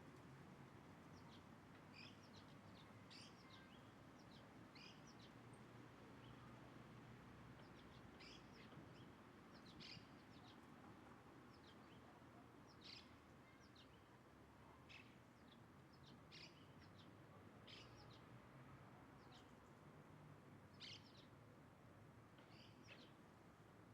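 Faint, short bird chirps scattered through, one every second or two, over a steady low background hum.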